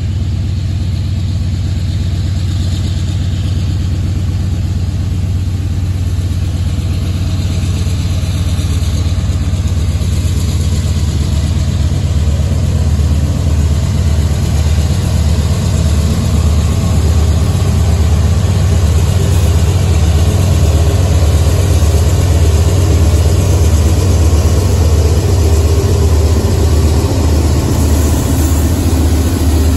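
Diesel locomotives of a freight train running with a low, throbbing engine drone that grows slowly louder as the train approaches.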